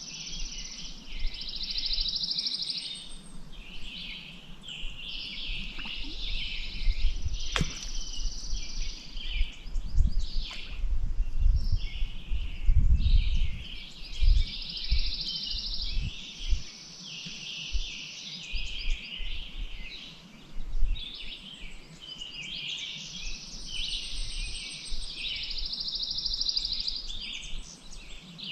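Several songbirds singing at once without a break, with repeated fast, buzzy trills among the chirps. A low rumble comes and goes around the middle, and there is a single sharp click.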